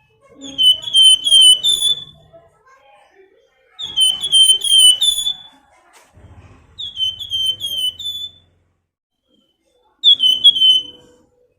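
A songbird kept under the name 'flamboyan' singing loud, repeated whistled phrases: four short bursts, each of four or five quick down-slurred notes, with gaps of a second or two between them.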